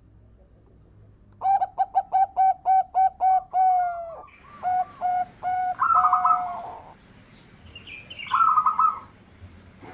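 Zebra dove (perkutut) song: a quick run of about ten short staccato coo notes, then a few longer coos, and a higher rolling phrase near the end.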